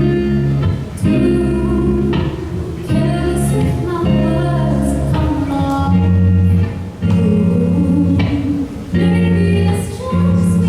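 Live song: a singer with guitar accompaniment and a steady bass line, chords changing every second or two.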